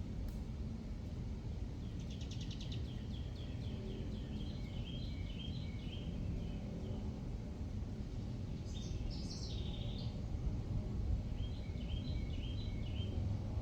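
A songbird singing three separate phrases, each a quick run of chirping notes, over a steady low outdoor rumble.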